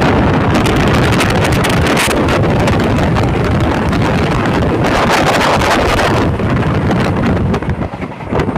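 Wind buffeting the microphone at the open door of a moving passenger train, over the coach's running noise on the track.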